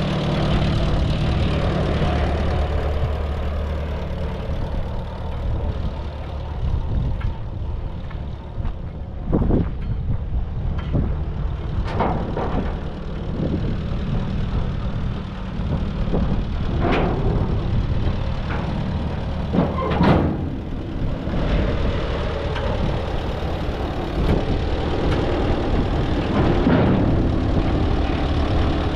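Tractor engine running steadily at idle, with several sharp metallic clanks and knocks over it.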